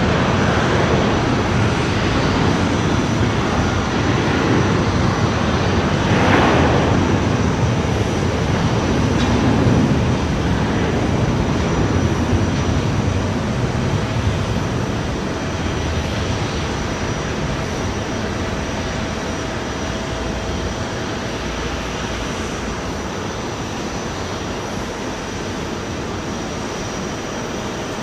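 Jet airliner engine noise, a loud, even rush that slowly fades, with a faint steady whine coming in about halfway through.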